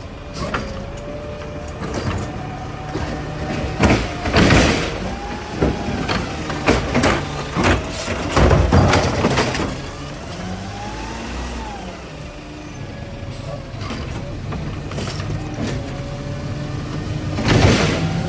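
Garbage truck at work: its engine runs with its pitch rising and falling, while loud bangs, clanks and rushing bursts come from trash being dumped and handled, several of them heavy.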